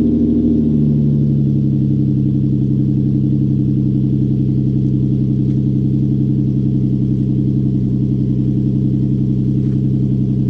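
Lexus GS300's 2JZ-GE VVT-i inline-six idling steadily through a straight-piped exhaust with all cats and mufflers deleted, a deep, even drone whose note shifts slightly about half a second in.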